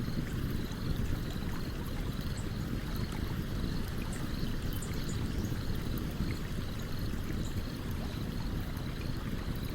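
Stream water rushing steadily, a dense low rumble of flow, with small scattered crackles and pops from a campfire.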